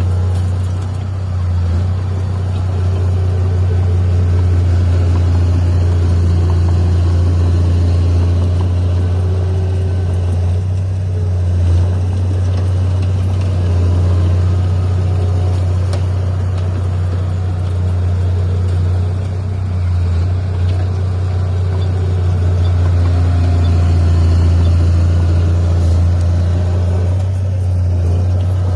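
Heavy diesel earthmoving machine's engine running steadily under load, a deep even drone that rises and falls only slightly.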